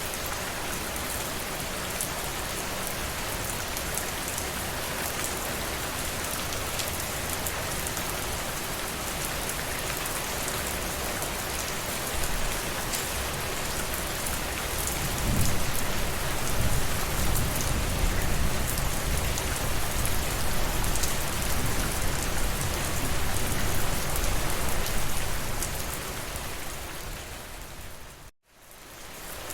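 Steady rainfall, an even hiss of drops on a surface. About halfway through a deep, low rumble swells in and holds for around ten seconds, then the whole sound fades down to a moment of silence just before the end and fades back up.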